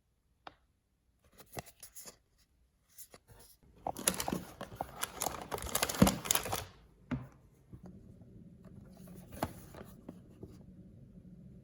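Blind-bag packaging handled with a few light crinkles and taps, then torn open in a loud tearing stretch of about three seconds, followed by a few more crinkles. A faint steady low hum starts near the end.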